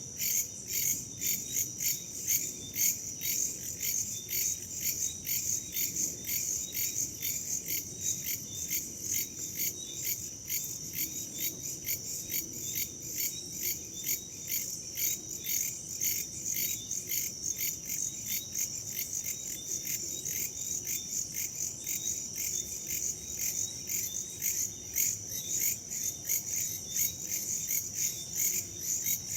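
Crickets chirping in a dense, steady chorus, pulsing at an even rhythm of a few chirps a second, over a soft low rush of wind.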